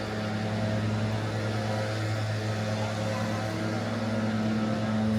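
A motor engine idling with a steady low hum that holds the same pitch throughout, over city street noise.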